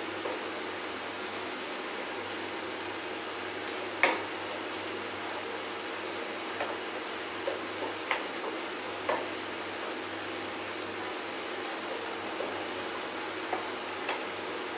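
Thick mutton masala sizzling steadily in a steel pan on a low flame while a spoon stirs it, with scattered scrapes and knocks of the spoon against the pan, the sharpest about four seconds in.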